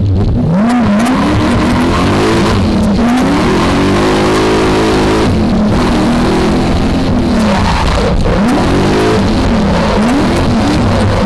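V8 engine of a BMW E30 drift car revving, its pitch climbing and dropping again and again as the throttle is worked.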